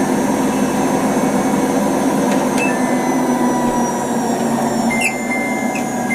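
Samsung Ecobubble WW90 washing machine running a high-speed spin in its test mode, the drum set to 1400 rpm, making a steady, loud rumbling drone. A few short clicks with brief high tones come about two and a half seconds in and again near the end.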